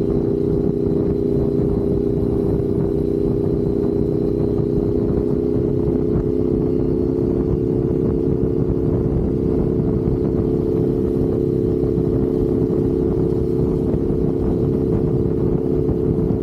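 Motorcycle engine running at a steady cruising speed, its drone holding an even pitch that creeps up slightly, over low rushing road and wind noise.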